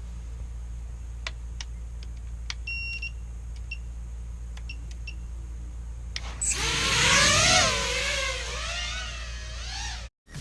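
Steady electrical hum with a few clicks and short electronic beeps, then about six seconds in a quadcopter's motors spin up, their whine wavering up and down in pitch, before cutting off suddenly near the end.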